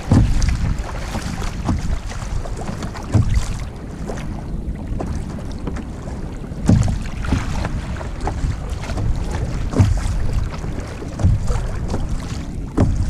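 Wind buffeting the microphone over water moving around a kayak at sea, with sharper splashes against the hull every second or two.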